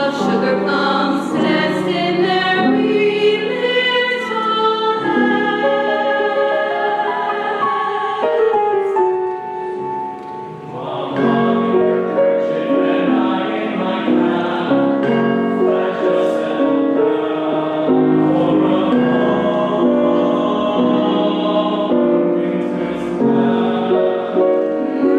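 Choir singing a Christmas carol in sustained, held notes; the singing softens briefly about ten seconds in, then swells again.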